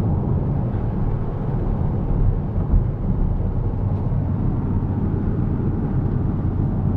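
Porsche Cayenne Turbo's twin-turbo V8 through a Tubi aftermarket exhaust, a steady low drone mixed with road noise while the car drives at an even pace.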